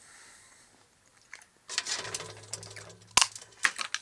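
Crackling and clicking from the chocolate Santa being handled in its wrapper, starting about two seconds in, with one sharp snap about three seconds in.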